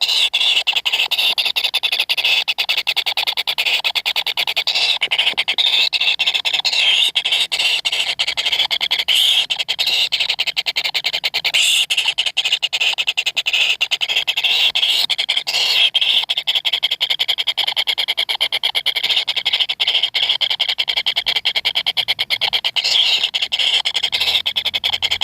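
Kingfisher nestlings calling in a continuous, dense, rasping chorus of very rapid pulses, high-pitched and unbroken throughout.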